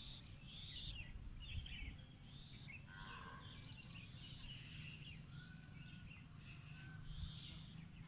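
Small birds chirping in short, scattered high calls from the surrounding trees, over a low steady hum of background noise.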